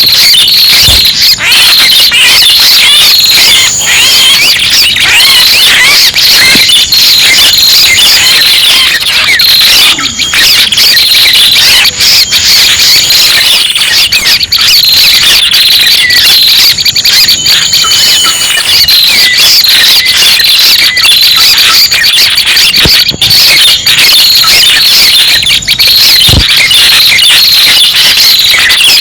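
Bird-lure recording of prenjak pala merah calls: dense, overlapping high chirps and trills without a break, played very loud, with a thin high buzzing tone that comes and goes every few seconds.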